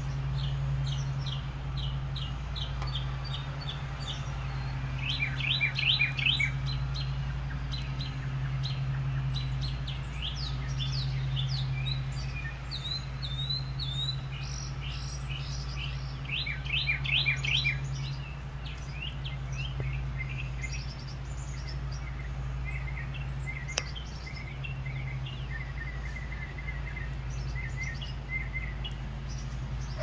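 Small songbirds chirping and singing, with two louder runs of quick down-slurred notes about 5 and 17 seconds in, over a steady low hum.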